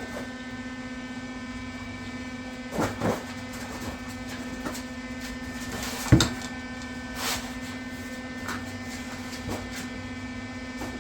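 A steady electrical hum runs throughout, with a few light knocks, one sharp clank about six seconds in, and a short hiss a second later.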